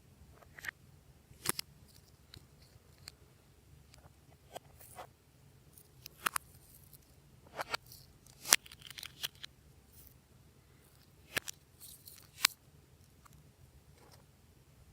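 Glossy slime being pressed and stretched by hand, giving irregular sharp clicks and crackling pops with short quiet gaps between them.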